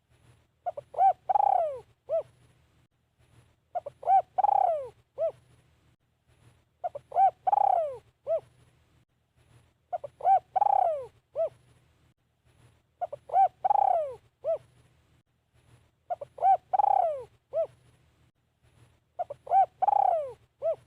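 Spotted dove cooing. Its phrase of a few short coos and one longer coo that falls in pitch repeats about every three seconds, seven times over.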